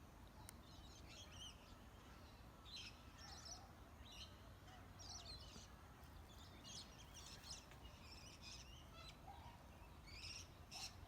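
Faint chirping of birds: short, high calls scattered throughout, several per second at times.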